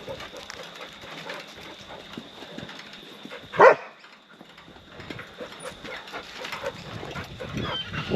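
A dog barks once, short and loud, about three and a half seconds in, over a quiet background with a faint steady high tone.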